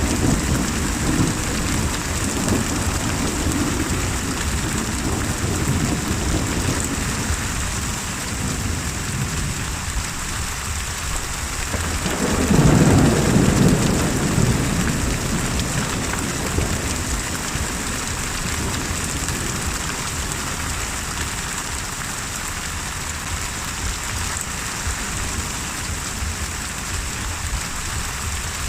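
Steady heavy rain with low rolling thunder. A louder thunder rumble swells about halfway through and fades over a couple of seconds.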